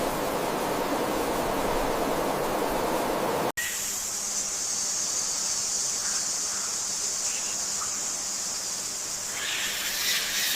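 Steady outdoor ambience: an even rushing noise, then after a sudden cut about a third of the way in, a steady high hiss with a few faint chirps.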